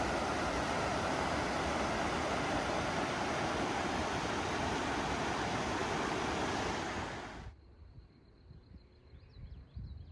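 Steady rush of water flowing over a small dam in a stream, cutting off suddenly about seven and a half seconds in. After it comes a faint, high-pitched chirping.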